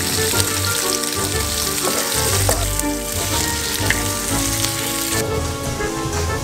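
Bacon and ground beef sizzling and frying in hot pans, with a few clicks of metal tongs against a pan. The sizzle cuts off about five seconds in, leaving soft background music.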